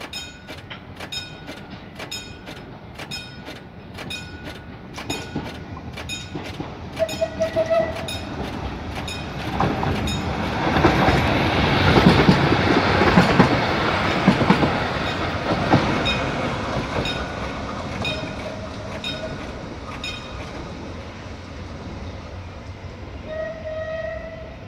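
Level-crossing bell ringing about twice a second, then a CAF-UTA 3700 electric light-rail train passing close by with a rising rumble and wheel clatter, loudest a few seconds past the middle before fading. Short train horn blasts sound just before the train passes and again twice in the second half.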